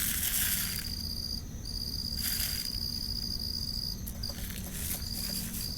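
Crickets trilling steadily at night, the high continuous trill breaking off briefly now and then, with a couple of short rustles early on and about two seconds in.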